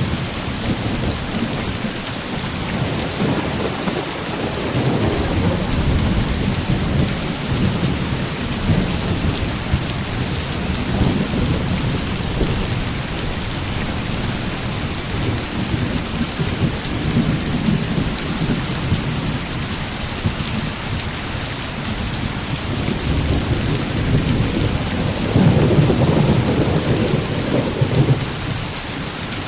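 Heavy rain falling steadily, with thunder rumbling low under it and swelling loudest near the end.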